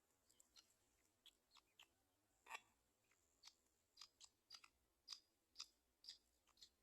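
Faint, irregular short sharp ticks, about a dozen, more frequent in the second half, the loudest about two and a half seconds in.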